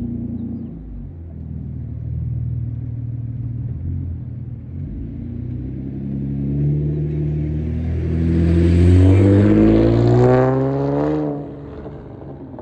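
Chevrolet Impala with a straight-piped exhaust (no catalytic converter, resonator or rear mufflers, only the mid muffler) driving by and accelerating. The engine note grows louder and rises in pitch, is loudest about nine to eleven seconds in, then falls away sharply near the end.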